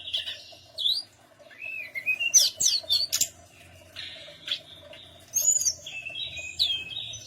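Tledekan gunung (mountain flycatcher) singing: bursts of quick chirps and fast gliding whistles mixed with buzzy notes, with short pauses between phrases, over a steady low hum.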